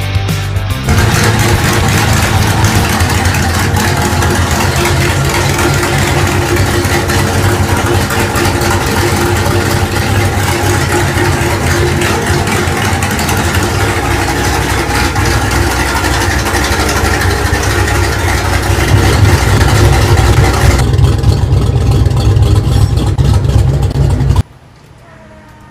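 Small-block Ford V8 engine running with a deep, steady exhaust note. It gets a little louder in the last few seconds, then stops abruptly near the end.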